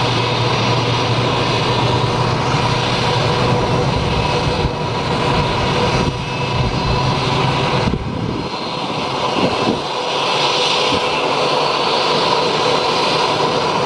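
Aircraft jet engine running, a loud steady rush with a high whine held at one pitch. The low rumble drops away about halfway through.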